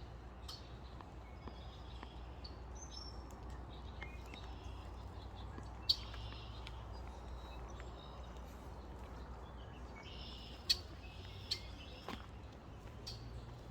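Small wild birds chirping in short, high calls throughout, over a low steady rumble, with a few sharp clicks, the loudest about six seconds in and near eleven seconds.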